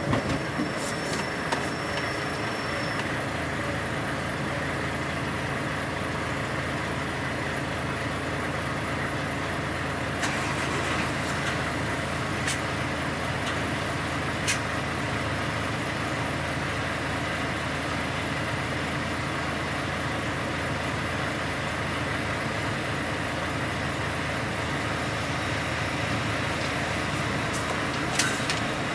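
HGV lorry's diesel engine idling steadily, with a few sharp clicks along the way.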